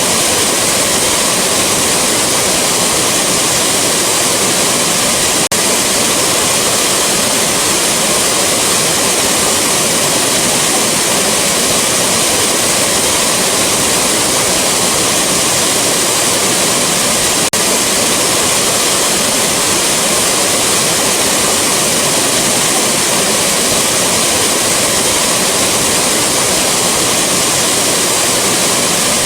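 Rushing waterfall: a steady, unchanging wash of falling water, bright and hissy in the upper range.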